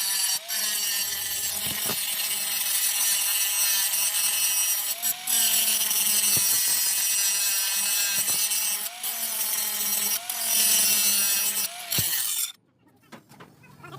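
An electric power tool cutting or grinding metal, running steadily with a high whine and gritty hiss. Its pitch dips briefly every second or two as it bites under load. It stops near the end.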